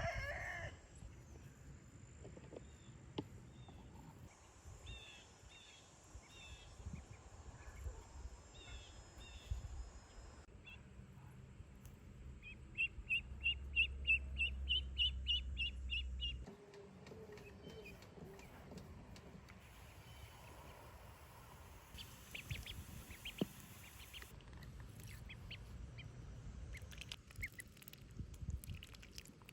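Farmyard poultry calling: a rooster's crow ends right at the start, then scattered high chirps. About halfway through comes a quick run of high chirps, about four a second for some three seconds, over a low rumble.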